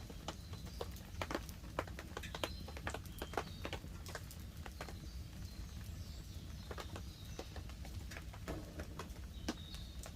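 Wood fire crackling, with irregular sharp snaps and pops over a steady low rumble. Light rain pattering on the tarp overhead.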